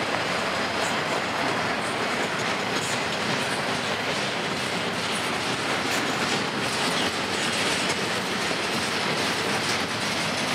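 Double-stack intermodal freight train of container well cars rolling past: a steady rush and rumble of steel wheels on rail, with repeated clicks of the wheels over the rail joints.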